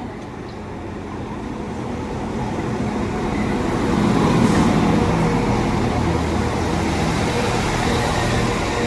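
Two coupled Class 195 diesel multiple units arriving at the platform: the engines and wheels grow louder over the first four seconds, then hold steady with a low engine hum as the train draws in.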